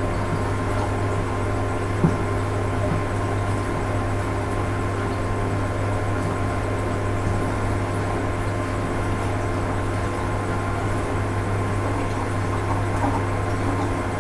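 Rebuilt Hoover Ecologic 800 automatic washing machine running on its rinse cycle: a steady motor hum with a single click about two seconds in.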